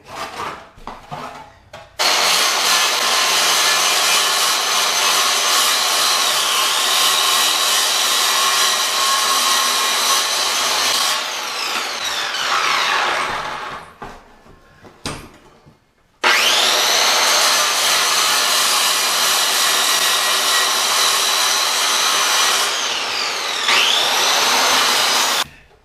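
Electric circular saw cutting through the wooden subfloor in two long runs, each started abruptly and ending with the blade winding down in a falling whine as it coasts to a stop.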